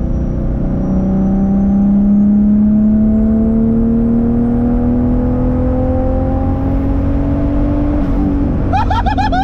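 Turbocharged 1.5JZ inline-six in a Lexus IS300 pulling under load, its pitch rising steadily for about eight seconds. Near the end the throttle comes off and a fast fluttering chirp follows, typical of turbo compressor flutter.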